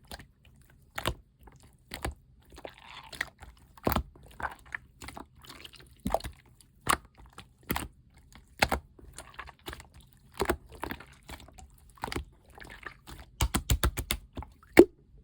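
Teal clear slime being pressed and worked by hand, giving sharp, irregular clicks and pops, with a quick run of about eight pops near the end.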